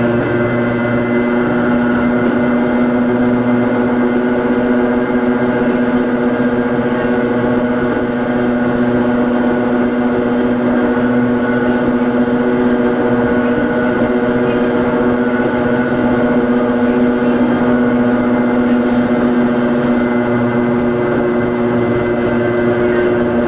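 On-board sound of the Hakone Tozan Railway Moha 1 car No. 106, a nose-suspended-drive electric car: a steady hum and whine at several constant pitches over general running noise, with no change in pitch.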